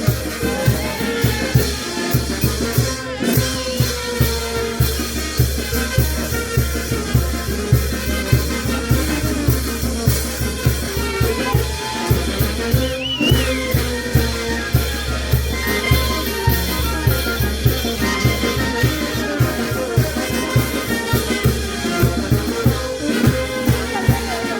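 Peruvian brass band (banda) playing, with trumpets and trombones over drums keeping a steady beat.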